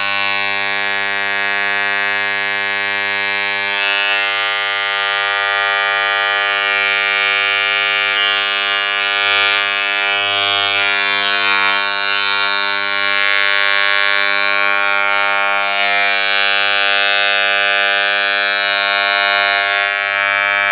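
Electric shaving machine running continuously with a steady, even buzz; its higher hiss shifts in texture a few times.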